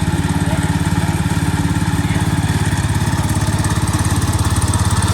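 Engine running steadily with a rapid, even beat of firing pulses, about a dozen a second.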